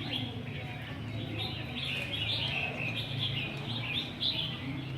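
Songbirds chirping and twittering, many quick overlapping calls with no pause, over a low steady hum.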